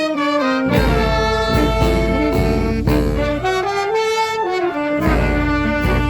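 Brass fanfare band playing a lively tune: trumpets and trombones carry the melody in held notes over a heavy bass drum beat.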